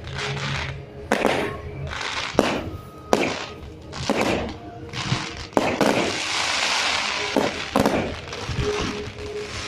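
Fireworks going off: a string of sharp bangs and cracks at irregular intervals, with a spell of crackling hiss about six to nine seconds in.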